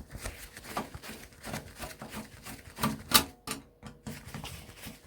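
Screwdriver working screws out of an electronics casing: a run of small rapid clicks and scrapes, with two sharper clicks about three seconds in.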